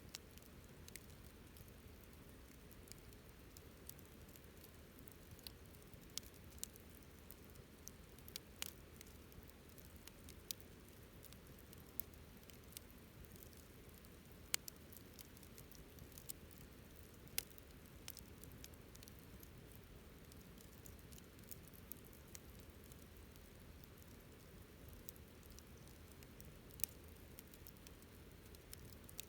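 Wood campfire crackling faintly: scattered, irregular sharp pops and snaps over a low steady hiss, with a couple of louder pops partway through.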